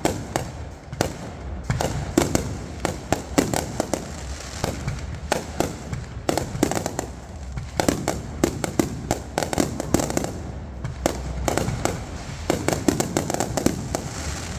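Fireworks going off: many sharp bangs and crackling pops in quick, irregular succession, several a second.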